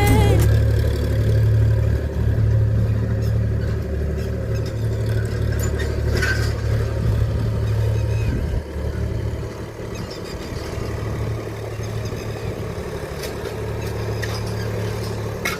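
Engine of a farm tilling machine running steadily as it works the field. It falls off for a moment about eight and a half seconds in, then runs on a little quieter.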